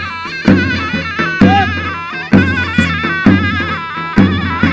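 Turkish folk dance music on davul and zurna: a shrill, wavering reed-pipe melody over heavy bass-drum strokes about once a second.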